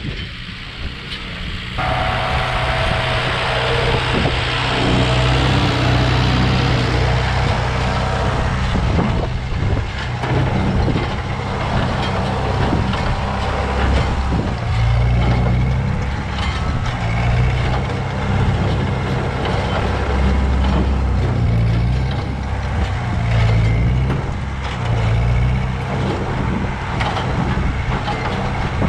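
Ford 8N tractor's four-cylinder flathead engine running steadily under load as it pulls a Massey Ferguson No. 3 hay baler, with knocks from the working baler over the engine. The sound gets louder about two seconds in.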